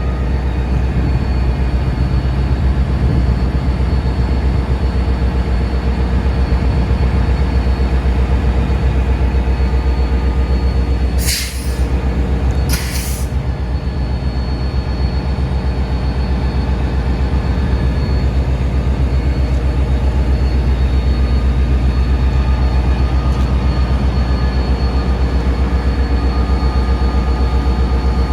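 Train running steadily with a loud, constant low hum and steady tones. Near the middle there are two short hisses about a second and a half apart.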